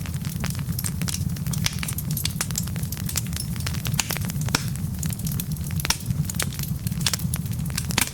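Wood fire burning in a fireplace: irregular crackles and pops from the logs over a steady low rumble of the flames.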